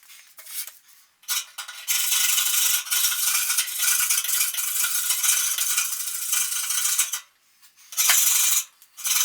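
Scraper rasping against the steel walls of a pellet stove's combustion chamber, scraping off hard soot deposits. One long stretch of scraping from about a second in to about seven seconds, then two shorter strokes near the end.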